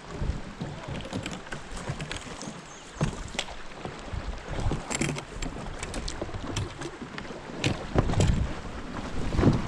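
Wind rumbling on the microphone aboard a small fishing boat on the water, with scattered light knocks and clicks, more of them near the end.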